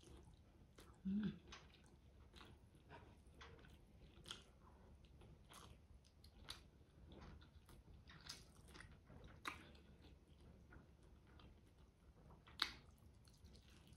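Faint, close-miked chewing of braised chicken drumstick meat: soft wet mouth clicks and smacks at irregular intervals. A brief low voice sound about a second in.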